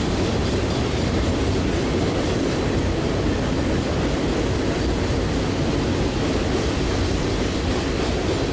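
CSX freight train cars rolling past on the rails, a steady, even noise of wheels on track.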